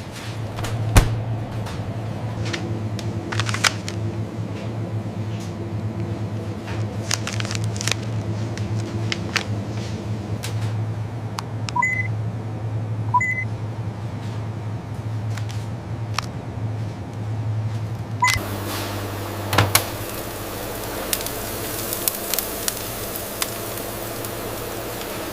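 Steady low machinery hum with scattered clicks and clanks and a few short high beeps. About two-thirds of the way through the sound changes suddenly to a louder hiss over the hum.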